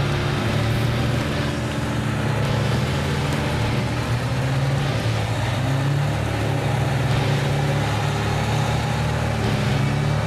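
Off-road 4x4 vehicle engine running steadily under a dense layer of noise.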